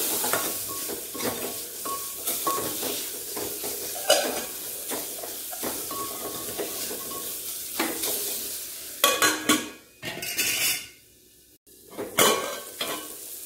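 Chopped ridge gourd sizzling in spiced ghee in an aluminium pot while a steel ladle stirs and scrapes it, with frequent metal clinks against the pot. Near the end the sizzle drops out for about a second, then a steel lid clatters.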